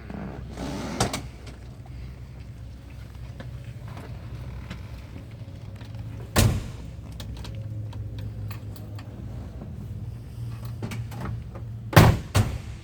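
Car doors shutting: four solid thuds, one about a second in, one in the middle and two close together near the end, over a steady low hum.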